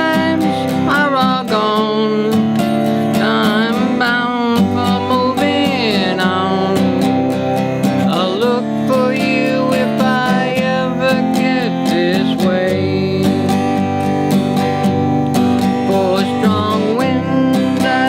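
Acoustic guitar strumming steadily under a lead melody that slides up and down between notes: an instrumental break in a country-folk song.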